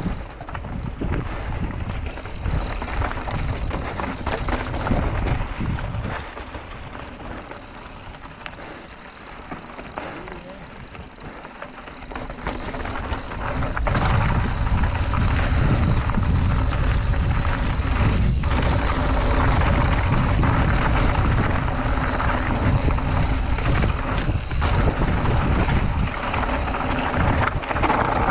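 Mountain bike riding over rough trail: wind noise on the microphone with the rattle of tyres and frame over rock, growing louder and deeper from about halfway through.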